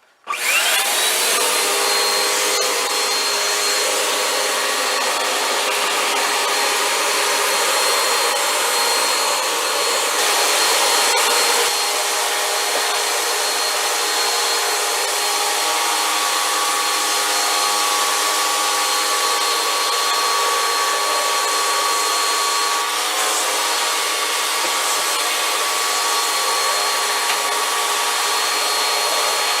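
Vacuum cleaner switched on, its motor whining up to speed within a second, then running steadily with the hose in use, a little louder about ten to eleven seconds in.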